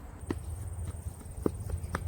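Footsteps: a few sharp, uneven footfalls of someone moving toward a jump, over a steady low rumble.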